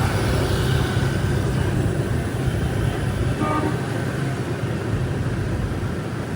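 Street traffic with a steady low engine hum, and a short horn beep about three and a half seconds in.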